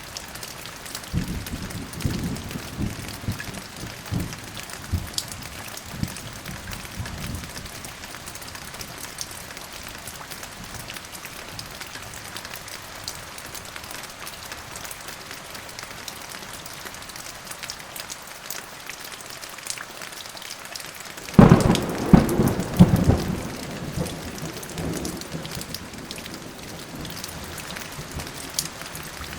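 Steady rain falling, with low thunder rumbling in the first few seconds. About two-thirds of the way through, a sudden, loud thunderclap breaks out and rumbles away over a few seconds.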